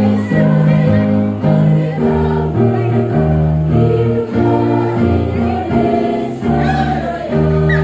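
Women's choir singing a song in slow block chords, closing on a long held final chord near the end.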